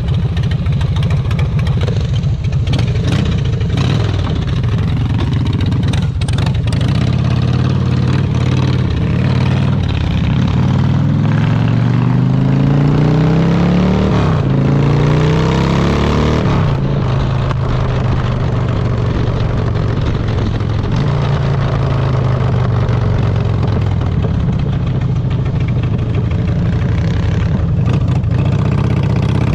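Harley-Davidson Dyna's V-twin engine running under way, its pitch climbing several times through the middle as it accelerates, then holding steady.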